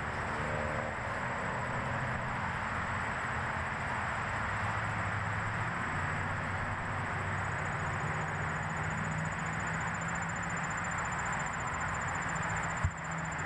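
Steady outdoor rushing noise with a low hum under it and a thin, steady high-pitched tone above it. A single sharp click comes near the end.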